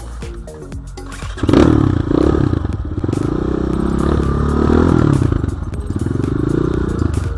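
BSE J1 enduro dirt bike's engine revving up and down on a forest trail, the revs surging sharply about a second and a half in, with some clatter from the bike.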